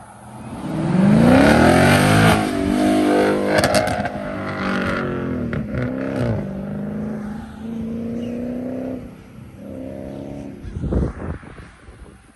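A car accelerating hard, its engine revving up and then dropping back several times as it shifts gears. It is loudest just after the start, then settles to a steadier pitch before a shorter rev-up near the end.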